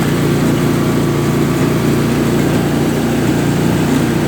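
Engine of a Husqvarna riding lawn mower running steadily as the mower is driven along.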